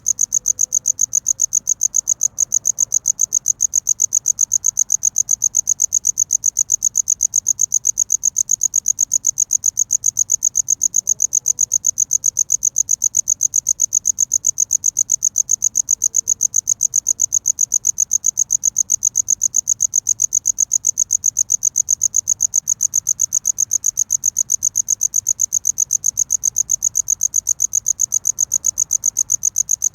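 A cricket chirping close up: a loud, high, pure-toned trill in rapid, evenly spaced pulses that keeps an unbroken rhythm.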